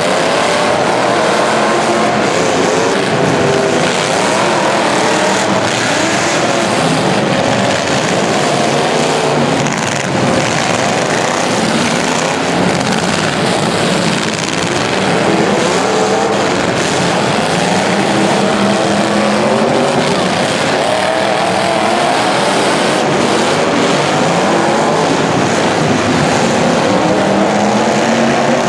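Several racing engines running together, their pitches rising and falling as they rev through a heat.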